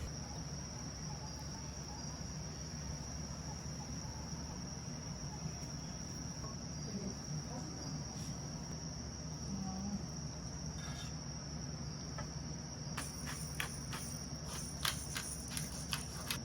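Crickets or other summer field insects chirring in a steady high trill, over a low steady hum. A few sharp light clicks come near the end.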